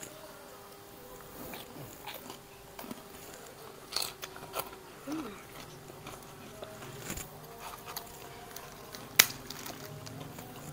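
Two people eating fried rice by hand, close to the microphone: chewing and lip-smacking with scattered sharp mouth clicks, the sharpest about nine seconds in. A faint steady hum runs underneath.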